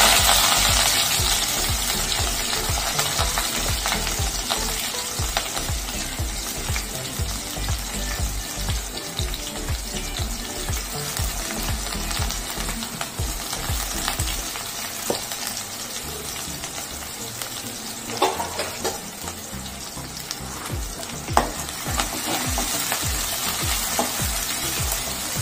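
Chopped onions and curry leaves sizzling in hot oil in a wide metal kadai, the sizzle slowly easing as the onions start to soften. A few sharp clicks of a spatula against the pan come in the second half as they are stirred.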